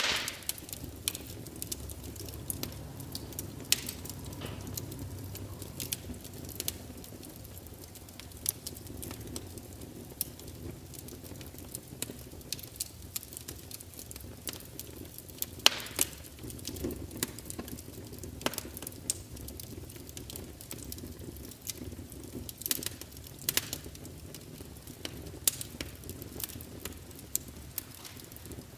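Wood fire burning: a steady low rush of flames under irregular sharp crackles and pops, a few louder snaps scattered through.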